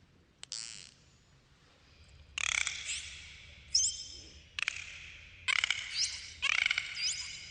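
Dolphins calling: a single sharp click early, then from about two seconds in, several short groups of rapid buzzing clicks mixed with quick rising whistles, coming roughly a second apart.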